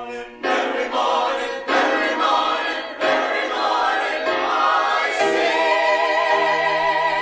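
A group of voices singing a short unaccompanied coda in several phrases, ending on a long held chord with vibrato.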